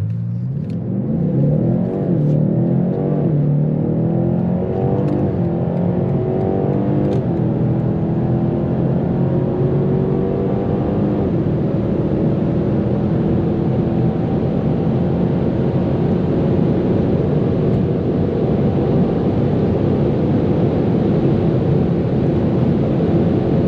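BMW M8 Competition's twin-turbocharged 4.4-litre V8 at full throttle from a launch-control start, heard from inside the cabin. The engine note climbs and drops back at each of several quick upshifts of the automatic gearbox in the first dozen seconds, then settles into a steady high-speed drone above 250 km/h.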